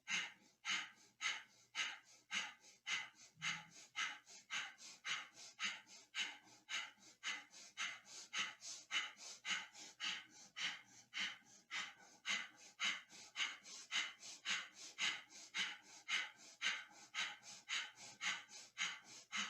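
A person doing breath of fire, the Kundalini yoga breathing exercise: rapid, even, forceful breaths through the nose, about two to three a second, in a steady rhythm.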